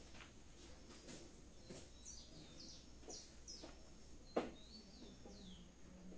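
Faint bird chirps: a few short, high, falling notes about two seconds in and again between four and five and a half seconds. A single sharp tap about four seconds in is the loudest sound.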